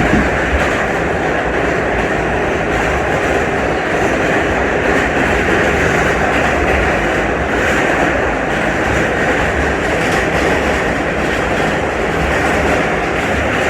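Inside an R68 New York City subway car running between stations: a steady, loud rumble of wheels on rail with clickety-clack from the track.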